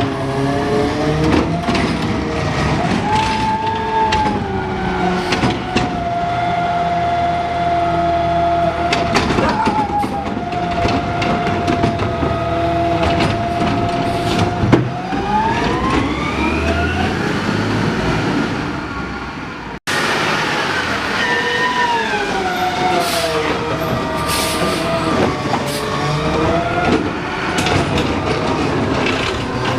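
Garbage truck engine and hydraulics working. The pitch rises and falls, holds a steady whine for several seconds, then climbs in a rising sweep. The sound cuts off abruptly about twenty seconds in and similar truck noise picks up again.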